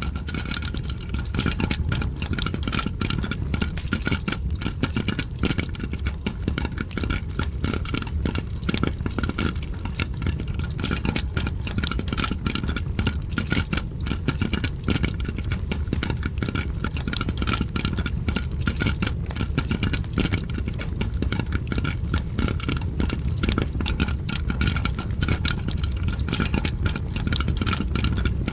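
Popcorn popping mixed with a crackling fire: a dense, continuous run of sharp pops and crackles over a steady low rumble.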